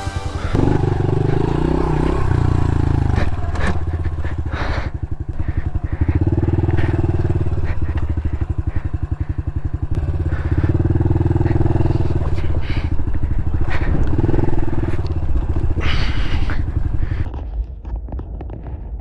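Honda CRF110 pit bike's small air-cooled single-cylinder four-stroke engine, pulled hard in repeated surges of throttle on a steep climb, with sharp knocks now and then. The engine drops off near the end.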